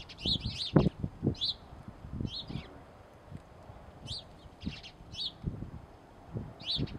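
Small birds chirping: short, sharp chirps that sweep downward, repeated every half second to second or so, over irregular low thumps and rumbles on the microphone.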